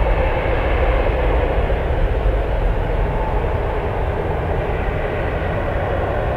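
Jet airliner engine noise, a steady rumble that eases slightly as the aircraft moves off.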